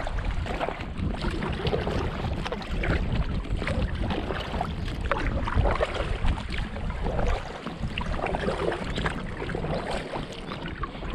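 Kayak paddle strokes, the blades dipping and splashing in the water at an irregular pace, over a steady low rumble of wind on the microphone.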